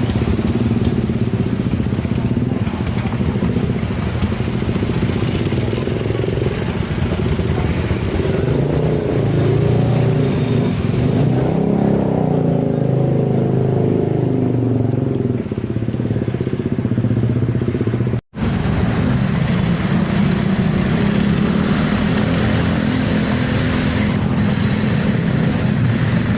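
Steady road traffic, mostly motorcycle engines running, with engine notes rising and shifting between about 8 and 16 seconds in. The sound cuts out for an instant just after 18 seconds.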